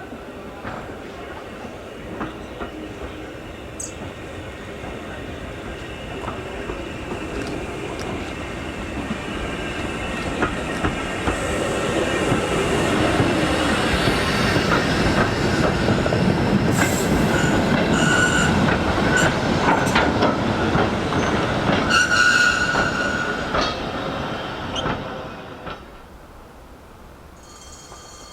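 A steam-hauled train passing: a rumble that builds over about ten seconds, with rapid wheel clicks over the rail joints and brief high-pitched flange squeals at its loudest, then drops away sharply near the end.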